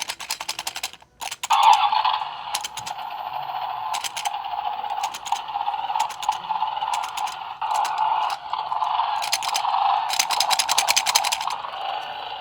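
Shake N Go Rex toy car rattling with rapid clicks as it is shaken, then its small battery motor whirring steadily for about ten seconds as it drives, with scattered clicks and rattles along the way.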